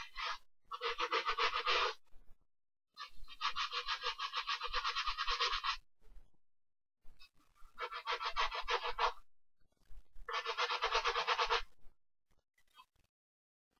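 Brush scrubbing a sneaker in quick back-and-forth strokes, coming in several bursts of one to three seconds with short pauses between them.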